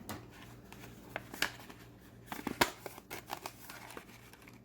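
A small plastic accessory packet being cut open with scissors and handled, with scattered snips and crinkling plastic. The sharpest snap comes about two and a half seconds in.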